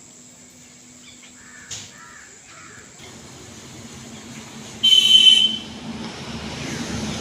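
A loud, harsh bird call about five seconds in, lasting under a second. A few softer calls come earlier, and a low rumble like an approaching vehicle builds through the second half.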